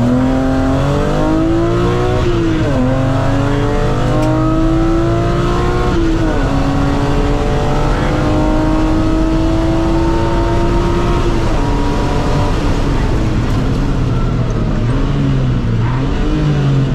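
Onboard sound of a BMW Compact M3 rally car's straight-six engine accelerating hard through the gears, with the revs dropping sharply at upshifts about 2 and 6 seconds in. It then holds high revs at full throttle until it lifts off about 11 seconds in, and the revs dip and rise a few times near the end.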